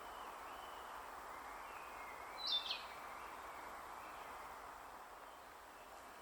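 A single short, sharp bird call of two quick notes about two and a half seconds in, over a steady outdoor hiss with faint distant bird song.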